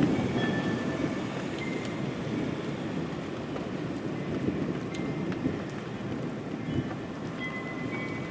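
Steady rain with a low rumble of thunder, loudest at the start and easing over the first couple of seconds.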